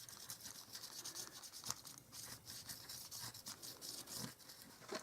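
Faint brushing and rubbing of a brush-tip pen stroked across cardstock, a soft scratchy rustle with many small ticks.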